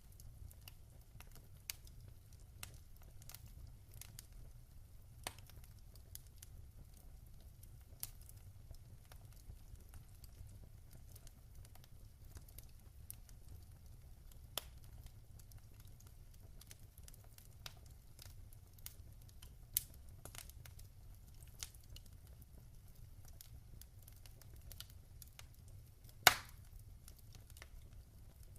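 Wood fire in a fireplace crackling, with irregular sharp snaps and pops over a low, steady rumble. One much louder pop comes near the end.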